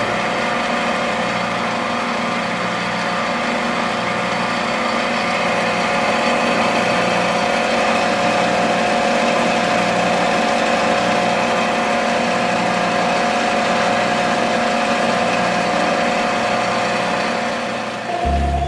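A small motor running steadily at an even pitch, with no change in speed.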